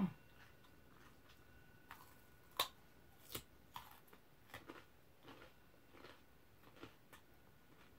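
Faint, irregular crisp crunches of someone biting and chewing a thick slice of raw Korean radish, a few sharp bites among softer chewing clicks.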